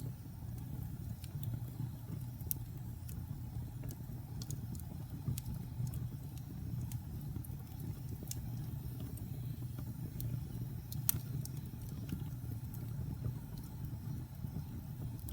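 Fire burning in a fireplace: a steady low rumble of flames with scattered sharp crackles and pops, the loudest one about eleven seconds in.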